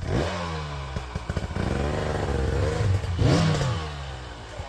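Dirt bike engine revving up and down under throttle, rising at the start and with a sharp blip about three seconds in before it settles lower.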